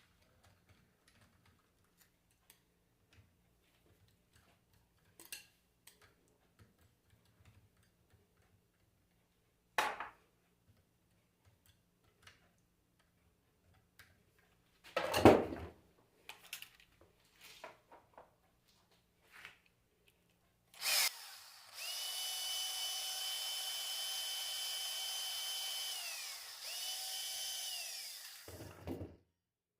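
Handheld power drill running steadily for about five seconds, dropping out briefly and starting again, then stopping. Before it, scattered light clicks and two sharper knocks of tools and metal parts being handled during disassembly of an alternator.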